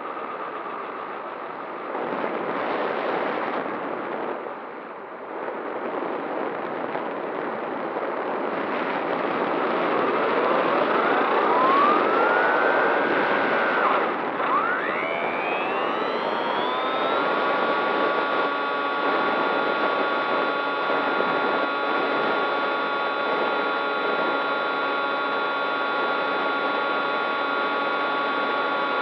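Radio-control model aircraft motor running under a rush of air noise. Its pitch rises and falls with throttle changes in the middle, then climbs about two thirds of the way in to a steady whine that holds.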